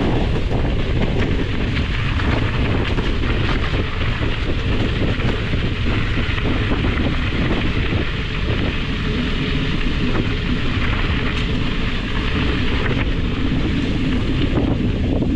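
Steady, loud wind buffeting the microphone.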